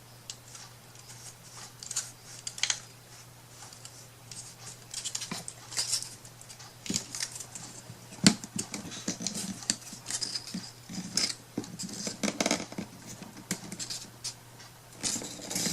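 Hands working paper craft materials at a table: irregular scratching, snipping and small taps, with one sharper click about eight seconds in.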